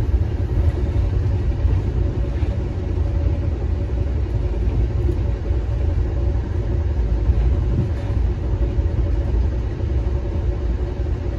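Inside an Amtrak Empire Service passenger coach running at speed: a steady, low rumble of the wheels on the track, with a faint steady hum above it.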